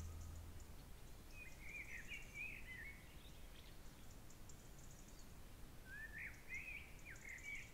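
Faint birdsong: a small songbird sings two short warbling phrases, one about a second in and one near the end, over a quiet outdoor hiss. The last of the song's music dies away at the very start.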